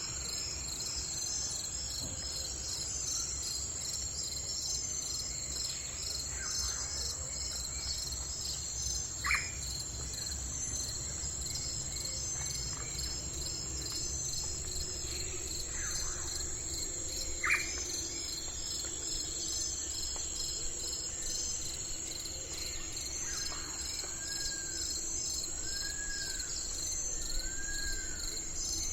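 Insects, crickets among them, chirping in a steady, pulsing high chorus. Now and then a bird calls: a few sharp downward-sweeping notes, then four evenly spaced arched whistles near the end.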